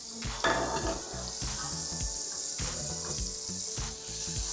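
Butter and oil sizzling steadily in a hot pan on high heat as stuffed dabeli buns fry, with one short scrape about half a second in.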